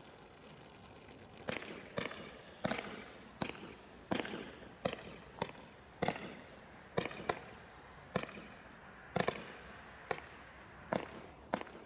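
Consumer fireworks from a bonfire selection box going off: after about a second and a half, a run of sharp bangs follows, roughly one or two a second, each trailing off with a short crackle.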